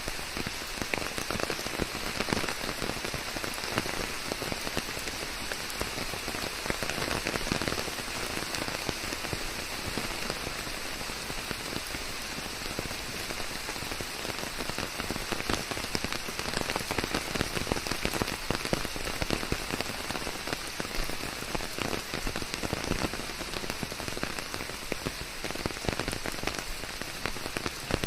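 Steady rain falling on a surface, a dense, even hiss full of close individual drop hits.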